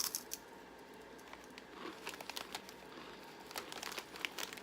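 Potato chip bag crinkling in short, scattered rustles as it is handled.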